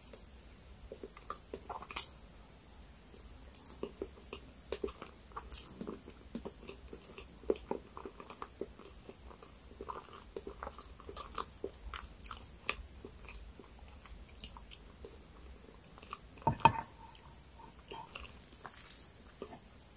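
Close-miked chewing of soft layered chocolate ganache cake: small wet mouth clicks and smacks scattered through. One sharper knock stands out about three-quarters of the way in.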